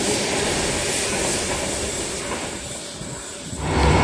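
A V-set double-deck electric train running past, its rumble fading away as the rear cars go by. About three and a half seconds in, it cuts abruptly to a steady low drone.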